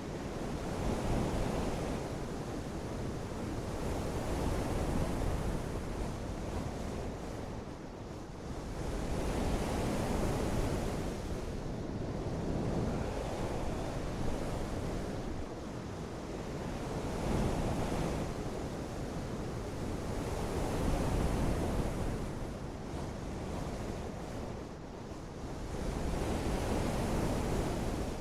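Continuous rushing noise of water and wind that swells and fades every few seconds.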